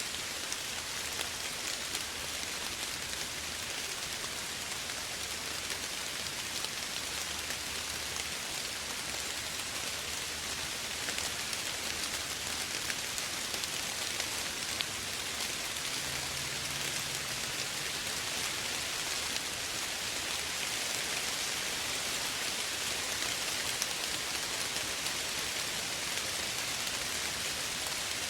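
Steady gentle rain falling, a dense even hiss of many small drops with faint scattered patters.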